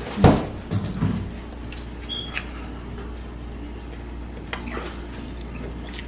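Eating sounds at a seafood boil: a dull knock just after the start and a few softer knocks about a second in, then scattered faint clicks and crackles over a steady low hum.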